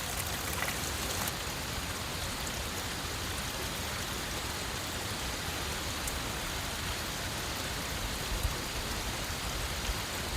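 A steady hiss of falling water, like rain, with a few faint ticks in the first second.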